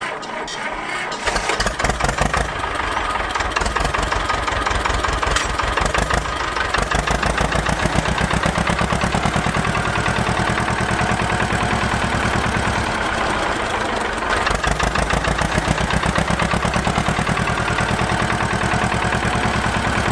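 Small petrol engine of a home-built miniature tractor running steadily, with a fast, even firing rhythm.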